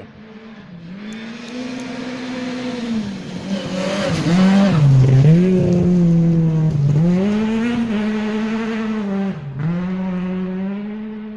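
Rally car engine under hard throttle, approaching and passing. Its note dips and climbs again about four times through gear changes or lifts, and it is loudest about halfway through before fading.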